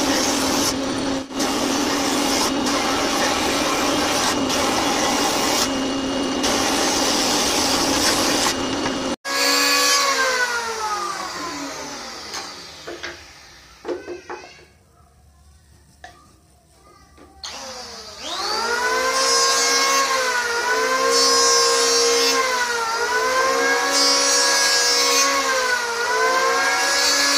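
Electric woodworking power tool cutting wood. A motor winds down and stops, then spins back up and cuts again, its pitch sagging about four times as the blade takes load in the wood.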